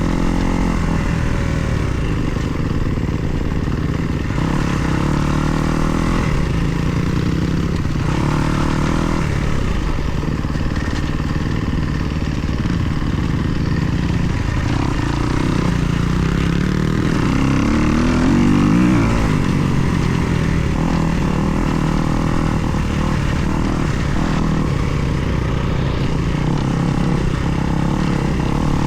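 2024 Kawasaki KX250 dirt bike's four-stroke single-cylinder engine running under load while being ridden, the revs rising and falling with the throttle, with a stronger rev climb about two-thirds of the way through.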